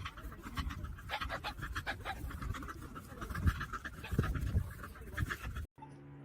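Dog panting rapidly in a quick, even rhythm, which cuts off suddenly near the end.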